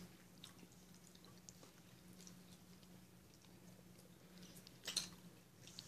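Near silence with faint, scattered chewing clicks, and one slightly louder short mouth click about five seconds in, over a faint steady low hum.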